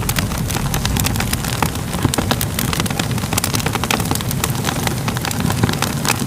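Fire crackling, with many quick sharp pops and snaps over a steady low rumble of burning.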